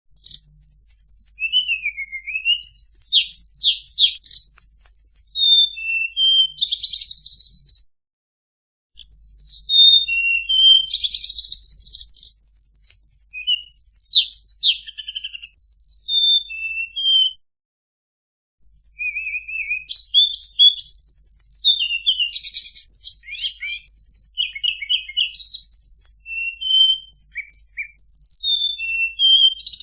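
A tledekan songbird singing a fast, varied song of high chirps, clear whistles, trills and rapid buzzy rattles. It is played as a masteran, a song recording for training caged songbirds. The song breaks off into short silences twice.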